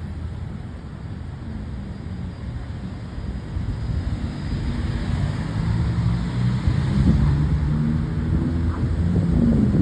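Engine of a large vehicle running, getting louder as it approaches, with wind noise on the microphone.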